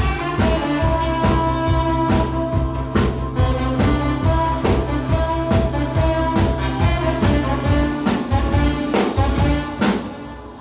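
Saxophone playing held melody notes over a drum kit keeping a steady beat, with a bass accompaniment underneath. The music fades out near the end.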